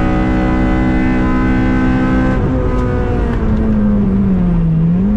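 Honda Civic Si's K20 four-cylinder engine heard from inside the cabin, running at steady high revs on track. About two and a half seconds in, the engine note breaks and falls, dips lower, then climbs again near the end.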